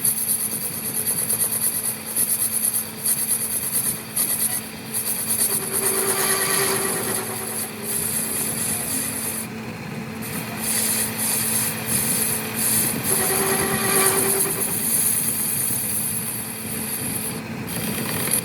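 Metalworking in a workshop: a machine running steadily while a tool scrapes and rubs against metal, stopping and starting.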